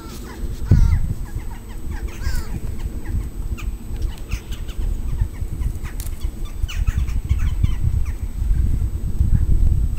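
Birds chirping with short gliding calls, over a strong, uneven low rumble that swells about a second in and again near the end.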